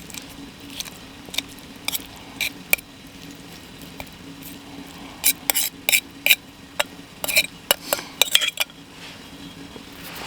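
Metal utensil clinking and scraping against cookware: a few light knocks, then a quicker run of clinks in the second half.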